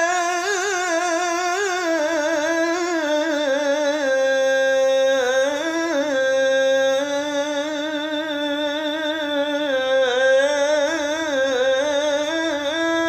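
A male voice singing the call to prayer (adhan), holding one long melismatic phrase of "hayya 'ala as-salah" without a break. The pitch winds and trills up and down in ornaments, settling on held notes now and then.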